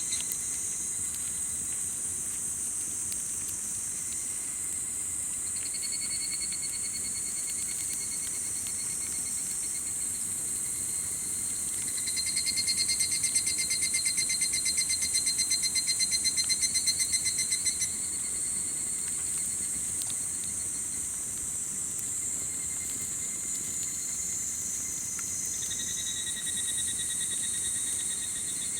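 Summer insects singing in a chorus of several steady high trills. A louder, rapidly pulsing trill joins about twelve seconds in and stops about six seconds later. A couple of faint crackles come from a campfire.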